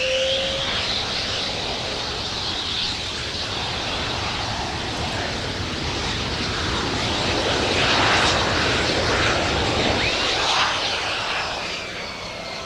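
A fixed-wing aircraft flying past with a broad engine noise. Its whine rises in pitch at the start and falls away toward the end, and it is loudest about eight seconds in.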